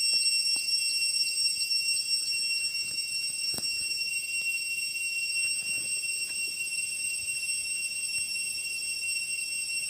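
Steady high-pitched insect drone at several fixed pitches at once, with a faint click about three and a half seconds in.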